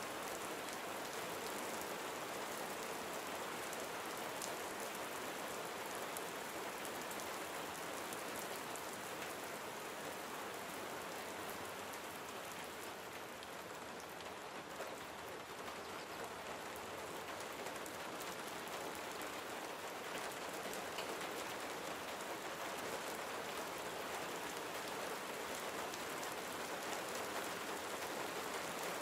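Gentle steady rain falling on surfaces, a continuous patter of many small drops, easing slightly around the middle before picking back up.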